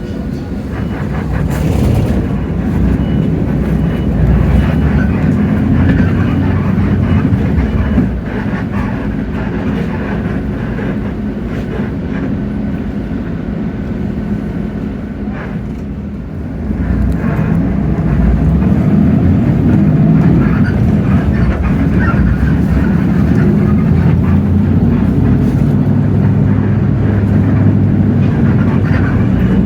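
Hino J08E-VN 7.7-litre diesel engine of a city bus running under way, heard from inside the bus. It eases off about eight seconds in and pulls louder again from about halfway through.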